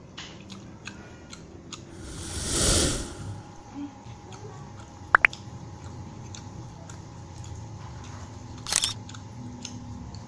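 Close-up mouth sounds of someone chewing food eaten by hand. Over them, sound effects of a subscribe-button animation: a whoosh about two and a half seconds in, a sharp double click about five seconds in, and another short burst near the end.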